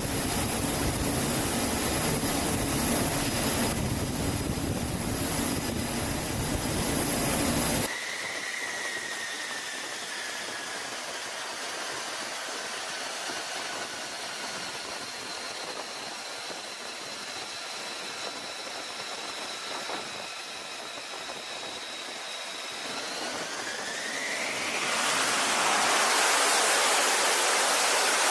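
F-35C jet engine noise. After a cut about 8 s in, a steady turbine whine slowly settles lower, then rises again near the end into a loud, even rush as the engine spools up to high power.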